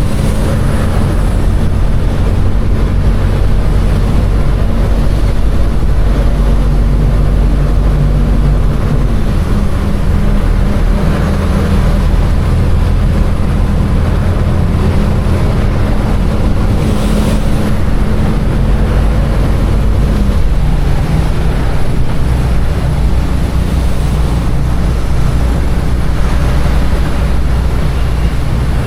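Container truck's diesel engine running, heard from the cab, with its steady low hum dropping slightly in pitch twice, about a third and about two-thirds of the way through, over a steady hiss of heavy rain and road noise.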